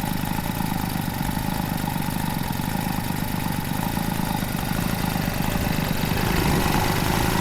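Peugeot 102 moped's small two-stroke engine running steadily at idle, a little louder from about six seconds in; the rebuilt clutch is now slipping as it should.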